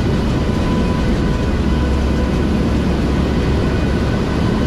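Steady in-flight cabin noise of a NOAA WP-3D Orion: the drone of its four turboprop engines with a deep constant hum and faint steady whines over it.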